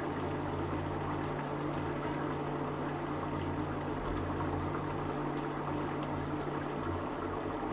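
Egg curry gravy simmering in a pot, a steady bubbling hiss over a low steady hum.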